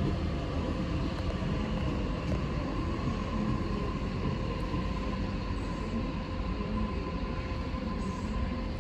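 Electric suburban train running at the station platform: a steady low rumble with a faint steady high hum over it.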